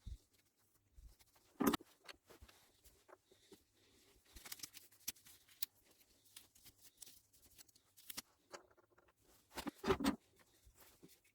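Small clicks, taps and light scraping of bicycle shifter parts and hand tools being handled on a workbench, with two louder bursts of knocks, one about two seconds in and one near the end.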